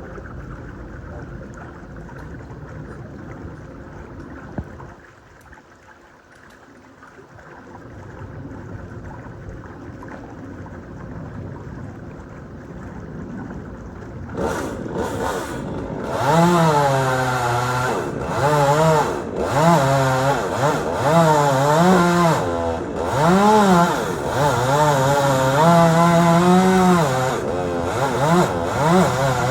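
Chainsaw engine, low and steady at first. About halfway through it gets loud, its pitch rising and falling again and again as it is revved.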